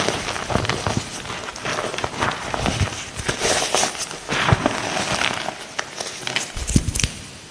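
Light green gym chalk being crushed: crisp crunching and crackling made of many small, irregular snaps, densest in the middle and dropping off near the end.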